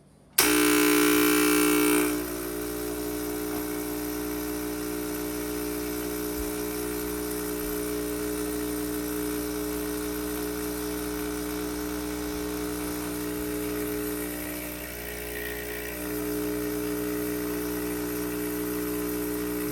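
Gaggia Classic espresso machine's vibratory pump switching on abruptly with a loud buzz, then after about a second and a half settling into a quieter steady hum that keeps running.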